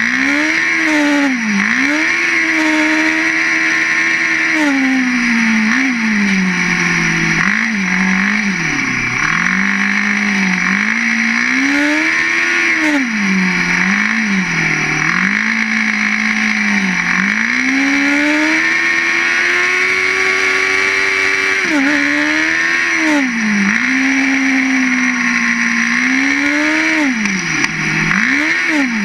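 Ice-racing car's engine being driven hard, its pitch climbing and dropping again every second or two as the throttle is worked, over a steady high hiss.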